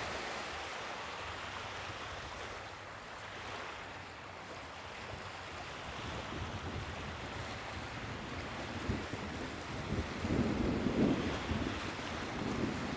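Sea waves washing in a steady rush that swells and eases. About ten seconds in, wind starts buffeting the microphone in rough gusts.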